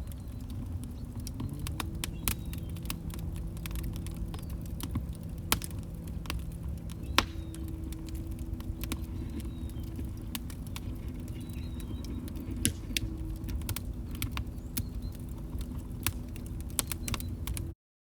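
Log fire crackling: a steady low rumble with frequent sharp pops and snaps, two louder pops in the first half. The sound cuts out abruptly near the end.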